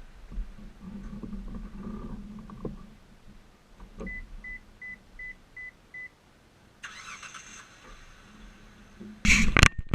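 A click, then six short, evenly spaced, high electronic beeps, each the same pitch. Near the end comes a brief, loud burst of noise.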